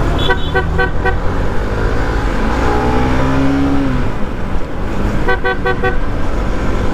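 Road traffic heard while riding, with a steady low rumble and two bursts of four quick, evenly spaced horn beeps, one at the start and one near the end. A vehicle's pitch rises and falls in between.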